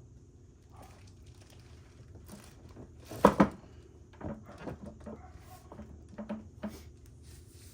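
Several knocks and taps from handling the generator's casing while it is tilted over to drain its oil. The loudest is a close pair of knocks about three seconds in, and lighter taps follow.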